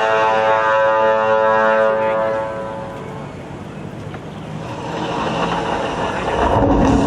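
Show soundtrack over loudspeakers: sustained synthesizer chords fade out over the first two seconds or so, then a low rumbling sound effect swells up from about five seconds in.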